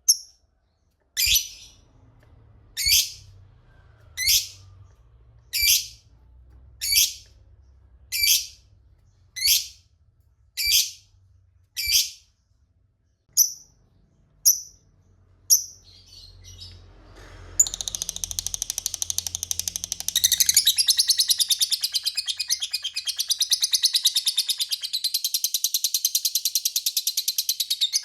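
Lovebird calling: a series of single sharp, high chirps about one every second and a half, then, about two-thirds of the way in, breaking into a long continuous rapid chattering trill, the 'ngekek' song.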